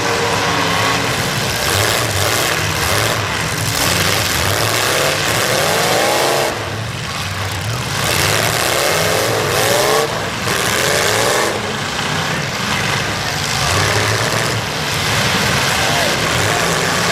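Demolition derby car engines revving up and down over one another, against a loud, steady rushing din.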